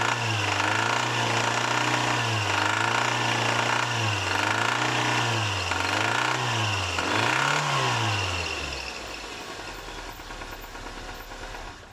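Nissan CR-series four-cylinder DOHC engine revved in repeated quick blips, the pitch rising and falling about once a second. About eight seconds in, the revs fall away and the sound drops to a faint low hum.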